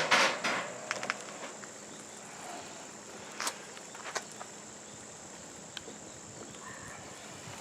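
A few sharp clicks and knocks as steaks are laid on a grill over a campfire, the strongest right at the start and another about three and a half seconds in, over a faint steady high-pitched hum and low hiss.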